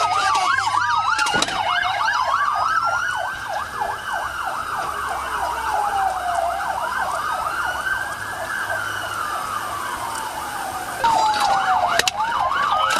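Police car sirens in a pursuit. One siren runs in a slow wail, rising and falling every four to five seconds, with a second siren in a fast yelp over it. About eleven seconds in it gets louder, with a few sharp clicks.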